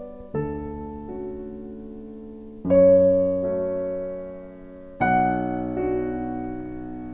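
Soft piano music: slow sustained chords struck about every two to three seconds, each left to fade.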